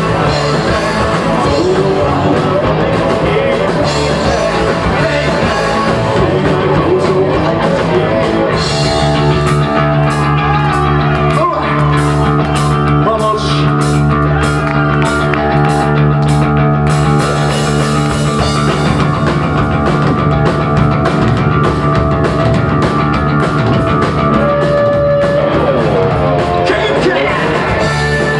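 Live rock band playing a rock number: electric guitars, bass and drums at full volume, with singing.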